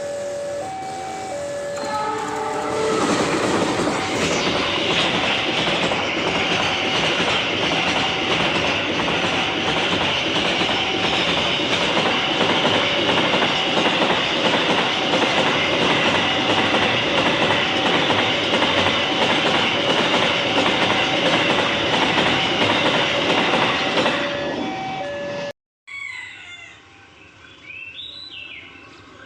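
A train passes at a level crossing, its loud wheel-on-rail clatter building about three seconds in and running until it ends abruptly about 24 seconds in. Throughout, the crossing warning alarm sounds a repeating two-note beep. After a cut near the end, it is quieter, with birds chirping.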